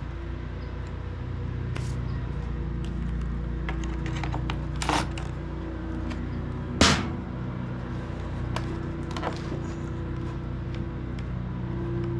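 Clicks and light knocks of tools and plastic parts as the Echo PB-265L backpack blower's engine is unscrewed from its housing, with two sharper knocks about five and seven seconds in, over a steady low hum.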